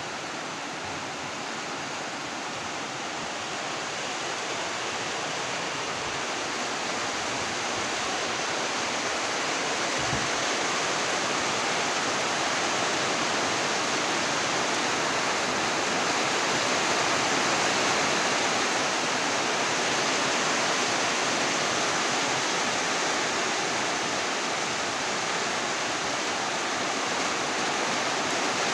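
Steady rainfall, a dense, even hiss that grows a little louder over the first fifteen seconds or so.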